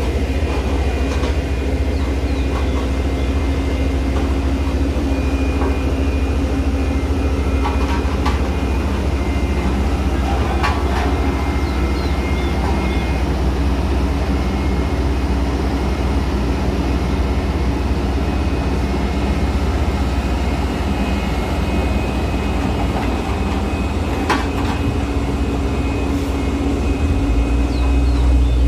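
Heavy truck diesel engine running steadily under load on a steep climb, a continuous low drone with a faint steady whine above it; the low drone swells near the end.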